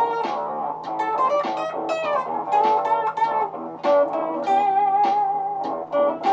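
Electric guitar playing a lead line of quick picked notes, with one note held and wavering in pitch about halfway through, over layered guitar loops.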